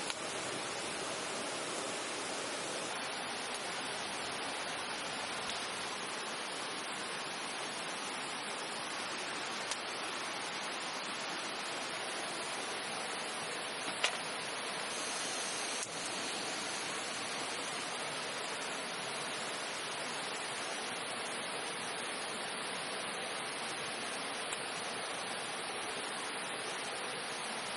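Steady, even rushing noise, with a single sharp click about 14 seconds in.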